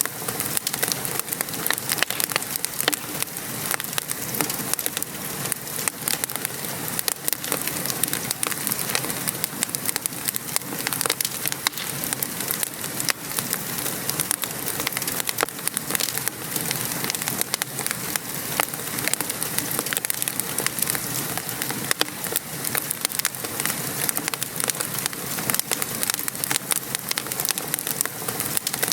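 Steady rain pattering on a surface, mixed with a wood fire crackling and popping in a fireplace; many small sharp pops over an even hiss.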